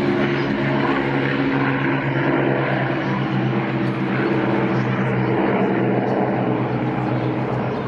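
Piston-engined propeller aircraft flying past, its engines droning steadily with a slight wavering in pitch.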